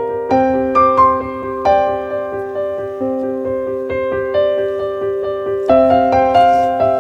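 Background piano music: a slow, gentle melody of single notes and chords struck and left to ring.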